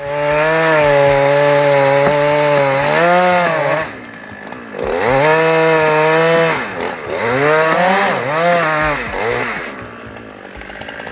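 Two-stroke chainsaw running at full throttle as it cuts through wood, its pitch dipping and recovering under load. It falls back to idle about four seconds in, revs up and cuts again, then drops back to idle near the end.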